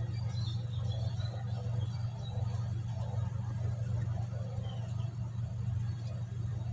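A steady low hum with faint, indistinct sounds above it.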